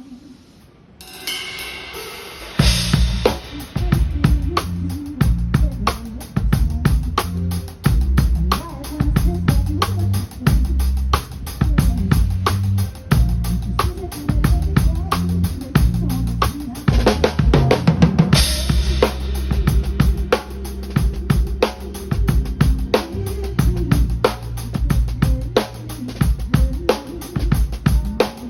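Live band playing a groove: a drum kit with snare and bass drum over a low bass line. The band comes in fully about two and a half seconds in, and a cymbal wash rings out about two thirds of the way through.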